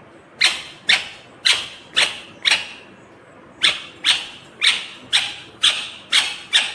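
Indian ringneck parrot giving a string of short, loud, harsh screeching calls about two a second, five in a row, a pause of about a second, then six more.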